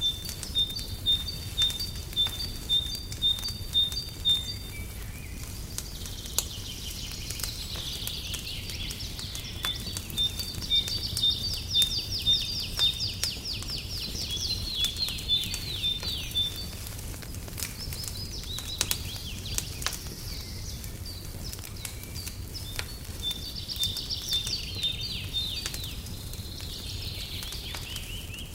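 Fireplace crackling with scattered sharp pops over a steady low rumble, while songbirds sing in three bouts of fast, repeated high chirps.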